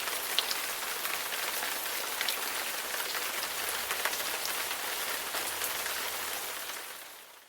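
Steady rainfall, with individual raindrops heard as many small sharp ticks over an even hiss. The sound fades out near the end.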